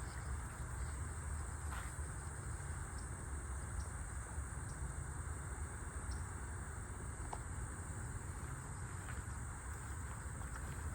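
Outdoor insect chorus: a steady, high-pitched buzzing of crickets or similar insects, over a constant low rumble, with a few faint ticks.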